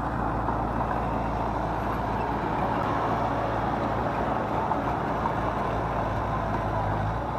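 Heavy diesel earthmoving machinery running steadily, a low engine hum under a broad steady rumble.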